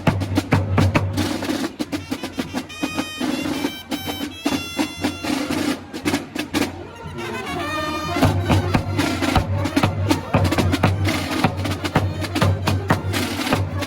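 Carnival street music: drums beat a dense rhythm over a steady low drone, with short high pitched melodic runs about three seconds in and again around the seventh second.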